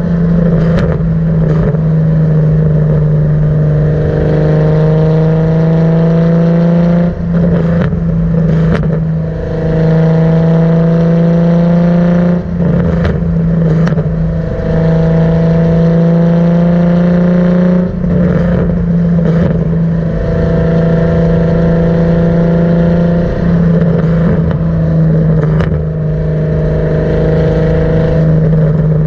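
Car exhaust through a Tomei cat-back system, heard at the tailpipe while driving: loud and steady, with the engine note climbing slowly through each gear and dropping back at several quick shifts, over a constant low drone.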